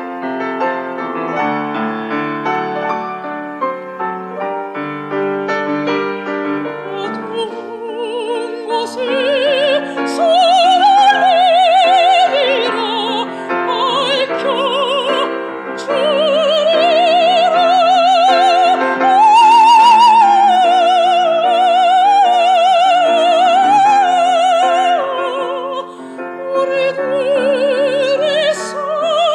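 Live classical performance: piano playing alone, joined about eight seconds in by a solo melody of long held notes with wide vibrato, operatic in style, which swells to its loudest near the middle.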